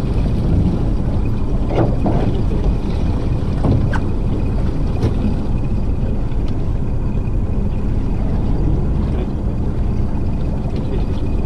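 Steady running noise of a small fishing boat: the engine and water against the hull, with a few faint knocks.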